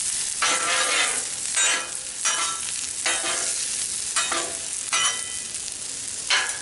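Onions, carrots and broccoli sizzling on a Blackstone steel flat-top griddle while a spatula scrapes across the griddle top to stir them. There are about eight short scraping strokes, one every second or less, over a steady frying hiss.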